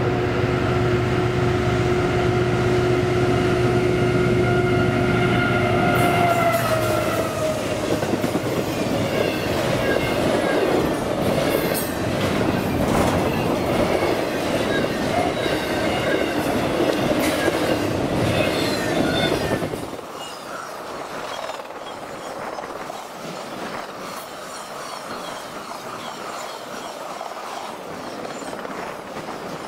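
CSX intermodal freight train passing: the lead diesel locomotives' steady tones slide down in pitch as they go by about seven seconds in, then the double-stack well cars and trailers clatter and rumble past on the rails, quieter from about twenty seconds in.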